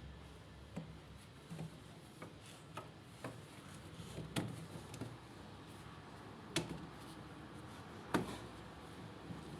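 Irregular light clicks and knocks, about a dozen, the loudest three about four, six and a half and eight seconds in.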